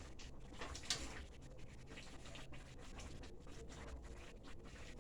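Faint scraping and light knocking of kitchen utensils, with one sharper knock about a second in.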